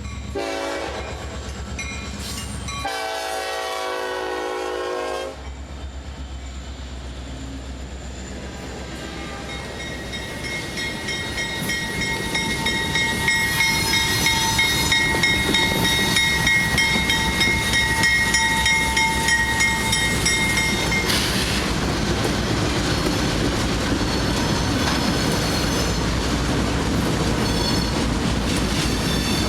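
A train sounds its horn twice, a short blast and then a longer one of about two seconds, as it approaches. It then passes close by with a loud rumble and clickety-clack of wheels on rail joints, and a steady high whine over the middle of the pass.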